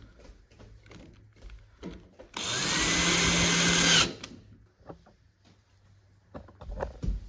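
Power drill spinning up and running steadily for about a second and a half, then stopping, during furniture assembly; light knocks and handling clicks of wooden parts around it, with a cluster of knocks near the end.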